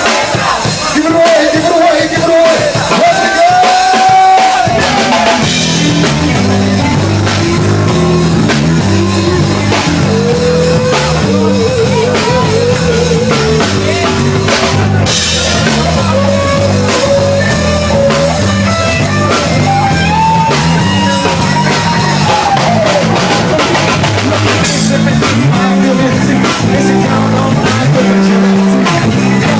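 Rock band playing a funk-rock song live: drum kit keeping a steady beat, a busy bass line coming in about five seconds in, and a held, wavering melody line over the top.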